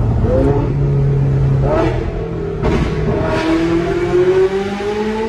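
Ferrari 458 Italia's V8 running through a Fi Exhaust valvetronic system with catless downpipes, accelerating in a road tunnel. The engine note jumps in pitch a couple of times in the first three seconds, then climbs steadily as the car pulls.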